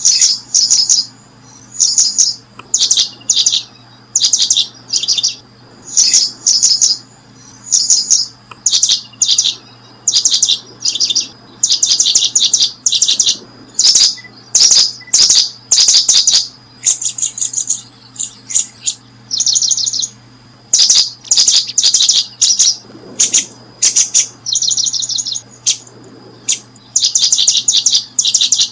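A small bird chirping in short, rapid stuttering series, about one each second, with brief gaps between them.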